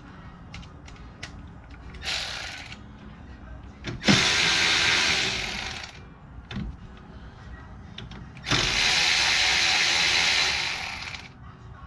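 Power ratchet running in three bursts to spin bolts loose from the hub and brake assembly: a short one about two seconds in, then two longer runs of about two seconds each.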